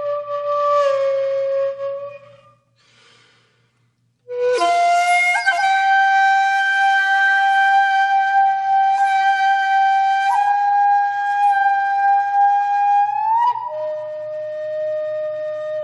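Background music: a solo flute holding long, sustained notes, with a brief pause about three seconds in before a long held note that bends up and steps down to a lower note near the end.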